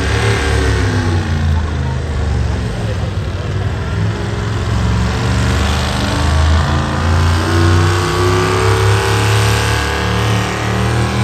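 Heavy pulling-vehicle engine running loud and revving, its pitch rising slowly in the second half.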